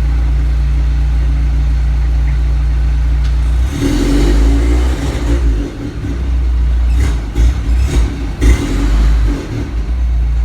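Jeep CJ5 engine idling steadily just after a cold start. About four seconds in, a louder, uneven rumble with a few sharp bumps takes over for several seconds, then the steady idle returns.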